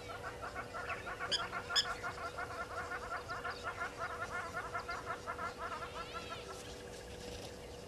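Birds calling: a fast chattering run of repeated notes, several a second, that stops about three-quarters of the way through, with two sharp, high metallic notes about a second and a half in. A steady faint hum runs underneath.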